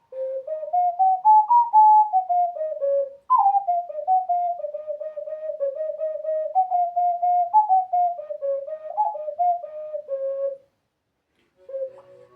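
Ocarina played solo, a melody of short stepped notes that opens with a rising run, breaks off for a moment about three seconds in, and pauses again for about a second near the end.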